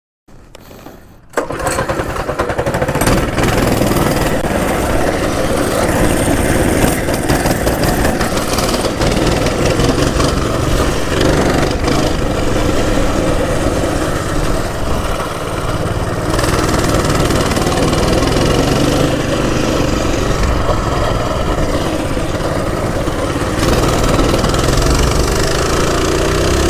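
Axis M200 mini bike's small engine running steadily. It comes in loud about a second in and holds a fairly even level.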